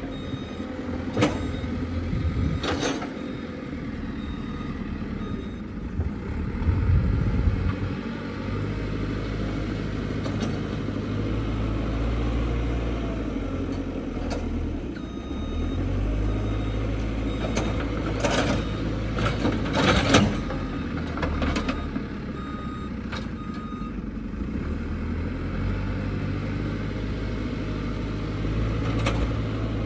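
Heavy diesel engines of trucks and a backhoe loader running steadily at work, with intermittent reversing beeps and a few short sharp hissing bursts.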